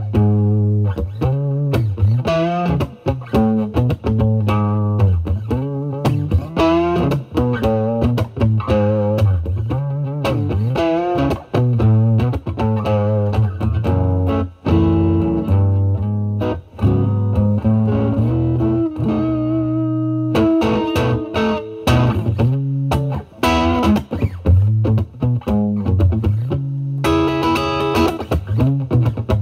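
Overdriven electric guitar: a Stratocaster played through a Vertex Steel String Clean Drive pedal at maximum gain into the drive channel of a Marshall Valvestate amp. It plays lead lines with string bends and vibrato over low notes, with a few chords near the end.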